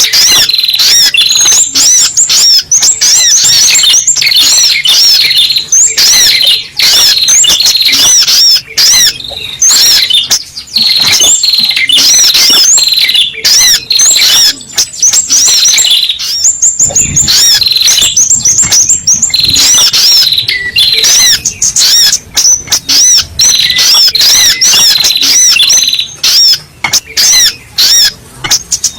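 Spiderhunter (sogok ontong) calls: a loud, continuous stream of rapid, high, repeated chattering notes with only brief breaks, of the kind used as a bird-trapping lure call.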